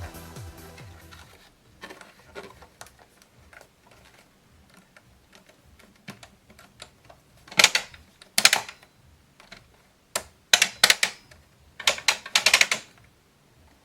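Handling noises of sharp clicks and clatters, coming in short bunches with quieter gaps between them. They are loudest in two clusters, one about halfway through and one near the end.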